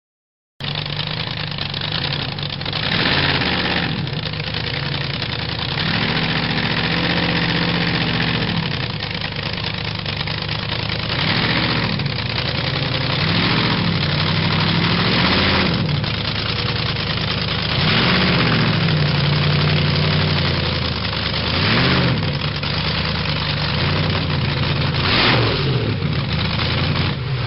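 A hot rod's exposed, supercharged V8 idling, with the throttle blipped about eight times so the engine revs up and falls back to idle.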